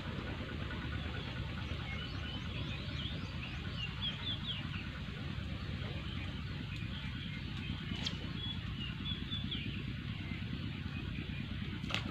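Small birds chirping and twittering over a steady low rumble, with a sharp click about eight seconds in and another near the end.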